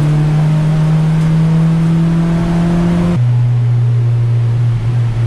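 Honda Civic Type R EP3's 2.0-litre four-cylinder race engine heard from inside the cabin, pulling hard with its pitch climbing slowly. About three seconds in, the pitch drops sharply as it shifts up a gear, then the engine keeps pulling steadily.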